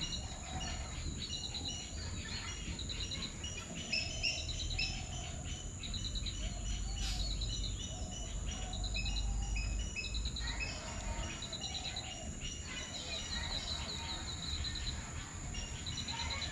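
Birds chirping and twittering, with short rapid trills repeating every second or so, over a steady high-pitched hum.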